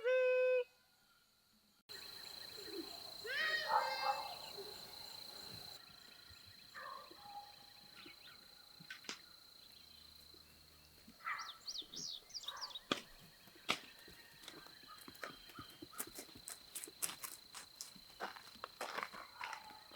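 Rural outdoor ambience with a steady high-pitched insect tone and several animal or bird calls. Scattered sharp clicks come thickly in the second half.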